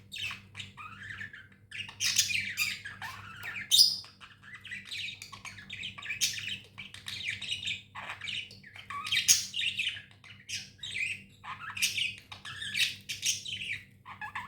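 Budgerigars (budgies) chattering and squawking continuously, with rapid warbling calls and louder harsh squawks every few seconds.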